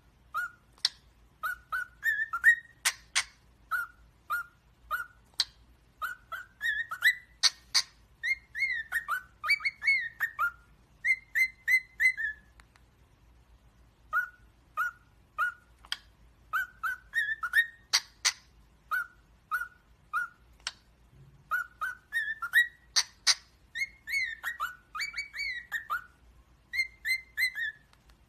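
Small parrots chirping in quick runs of short whistled notes, many of them rising or falling in pitch, with now and then a sharp, louder call. The chirping stops for about a second and a half near the middle, then starts again.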